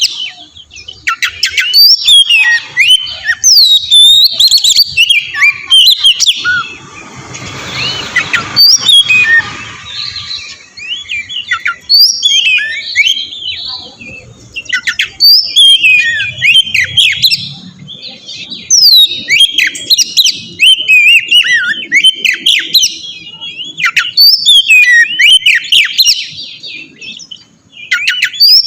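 Oriental magpie-robin (kacer) singing a loud, varied song of quick whistled and chirped phrases in bursts, with a short rush of noise about seven seconds in. It is a lure song (pancingan), used to provoke other magpie-robins into singing back.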